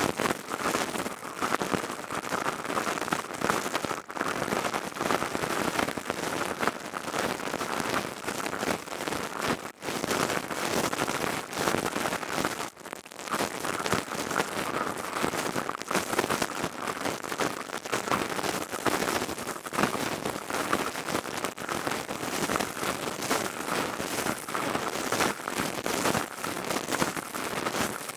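ASMR crystal tube sounds: a dense, continuous crackling patter close to the microphone, with brief breaks about ten and thirteen seconds in.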